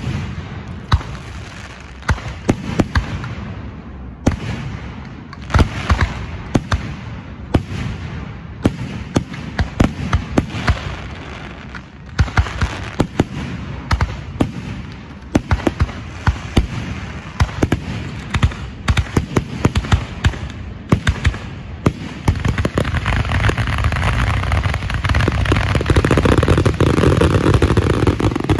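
Professional Rozzi aerial fireworks display: shells bursting one after another, each a sharp bang, with crackle between them. About three-quarters of the way through, the shots come so fast that they merge into a loud continuous barrage.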